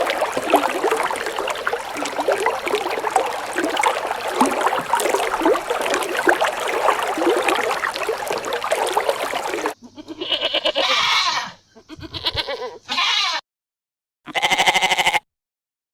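Bleating livestock: a dense clamour of many overlapping bleats from a flock. Then, after an abrupt cut, a few separate loud bleats, each cut off sharply.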